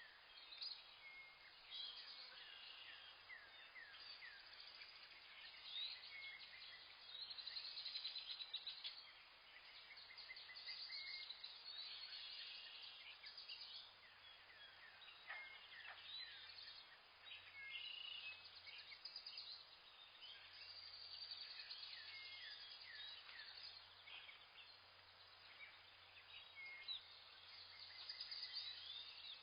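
Many birds chirping and calling at once: a faint, dense chorus of quick high notes that never lets up.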